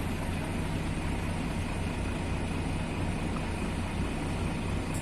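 Trabant 601's two-cylinder two-stroke engine running steadily at a constant pitch.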